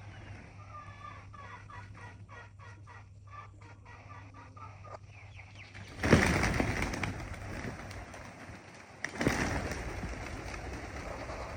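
Faint bird calls. Then two loud rushing noises about three seconds apart, each starting suddenly and dying away over a couple of seconds.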